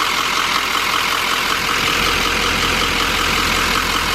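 2015 GMC Sierra 3500HD Denali's 6.6-litre Duramax diesel V8 idling steadily with the air conditioning running; a steady, even noise with a low hum beneath.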